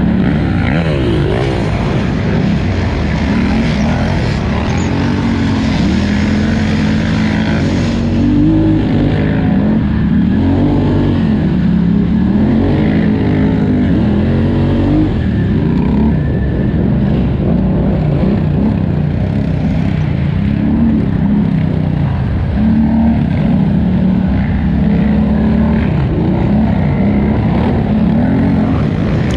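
2018 Polaris Scrambler 1000XP ATV's twin-cylinder engine at race pace, revving up and down constantly as the throttle is worked over rough ground.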